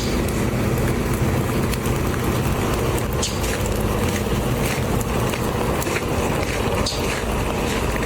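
A vehicle running with steady engine and road noise, with scattered sharp crackles over it.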